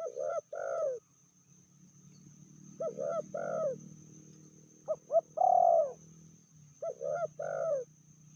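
Spotted dove cooing: four phrases about two seconds apart, each of two or three short notes ending in a longer, drawn-out coo.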